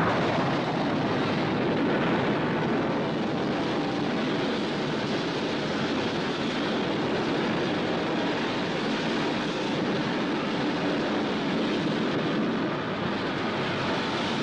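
Steady rushing noise, loud and even, with no distinct tones or strokes.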